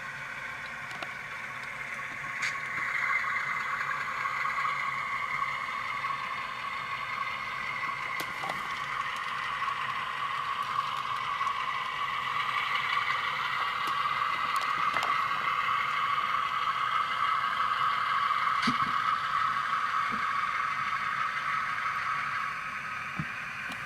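Tsunami sound decoder's diesel locomotive engine sound playing through the small speaker of an Atlas U23B model locomotive, running steadily with thin, mostly midrange sound. It gets louder about two and a half seconds in and again around twelve seconds, easing off near the end, with a few light clicks.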